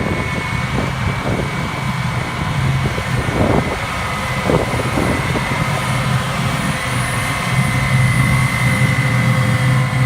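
New Holland tractor pulling an Oxbo 2334 merger in the field, its engine running steadily under a constant high whine, with a few brief rattles in the first half.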